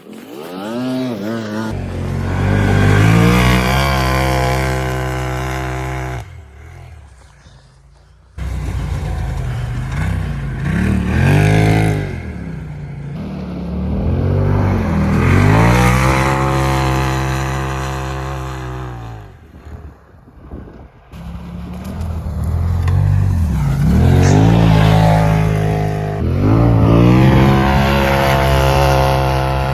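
Polaris RZR Turbo side-by-side engine repeatedly revving up and easing off as it drives in snow, with abrupt breaks in the sound a few times.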